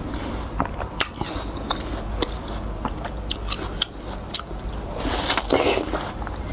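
Close-miked eating of watermelon: crisp, juicy bites and chewing with many small wet clicks, and a louder bite about five seconds in.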